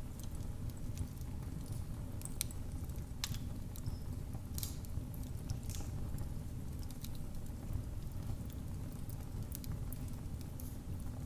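Fire crackling in a fireplace: a steady low rumble of flames with irregular sharp pops and snaps scattered through it, a few louder ones a few seconds in.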